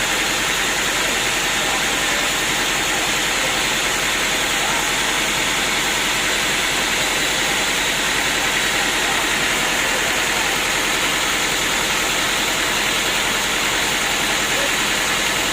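Sawmill machinery running steadily: a constant, even mechanical noise with no pauses or changes.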